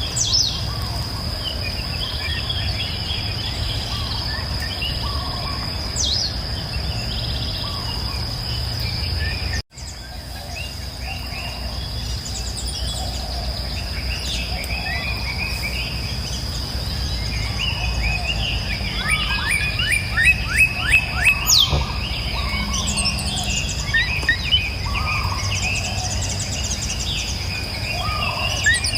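Several birds singing and chirping over a steady high-pitched insect drone and the low rush of flowing river water. A quick run of rapidly repeated notes comes about two-thirds through, and the sound cuts out for an instant about a third of the way in.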